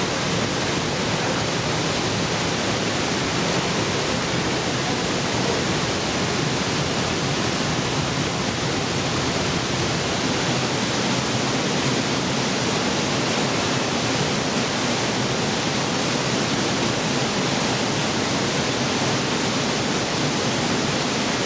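A roughly 80-metre waterfall crashing down into a narrow rock gorge, heard from close by: a loud, steady roar of falling water.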